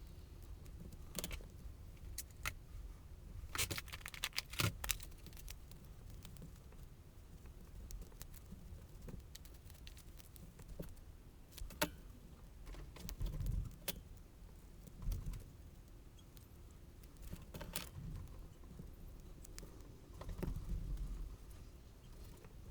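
Irregular small clicks, taps and rustles of paper and craft materials being handled on a worktable, with a few sharper clicks about four to five seconds in.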